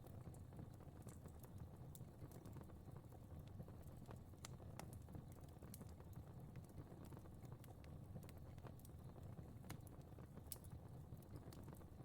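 Faint fire crackling in a fireplace: sparse, irregular pops and snaps over a low steady rumble.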